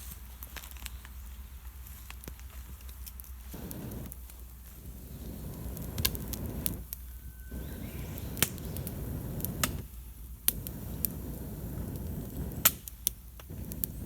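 A campfire of wet wood crackling and popping with sharp snaps, while someone blows into it through a fire-blowing pipe. From about three seconds in come long breaths of rushing air of about two seconds each, with short pauses between them to inhale, fanning a fire that struggles to stay lit on damp wood.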